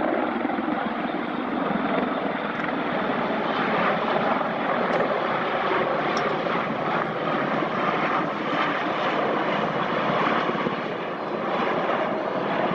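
Military aircraft passing in formation, an HC-130 turboprop with MH-53 helicopters, engines and rotors making a loud, steady noise.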